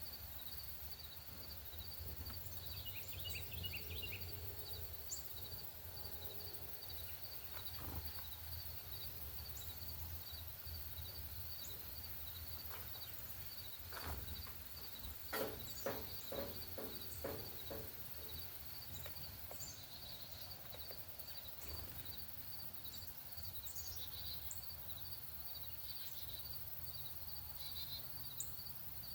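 Faint outdoor bird-feeder ambience: a steady, evenly repeated high-pitched pulsing runs throughout, with scattered short bird chirps. About fifteen seconds in there is a brief run of sharp knocks and clicks.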